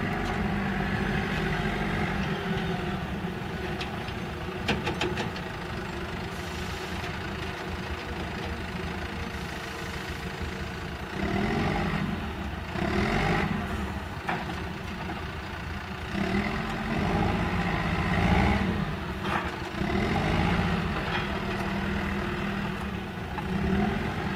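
Flatbed truck engine running steadily, swelling louder a few times, with a short cluster of sharp ticks about five seconds in.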